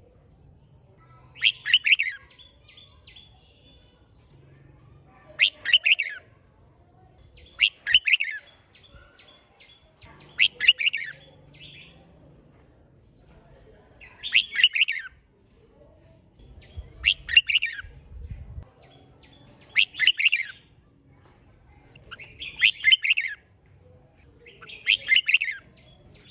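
Red-whiskered bulbul singing its competitive song: nine short, quick warbling phrases, each under a second, repeated every two to four seconds.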